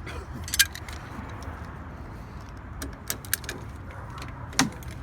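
Sharp metallic clicks and clinks from handling the freshly cleaned and lubricated parts of a SARGENT mortise lock. The loudest come about half a second in and again near the end, over a steady low hum.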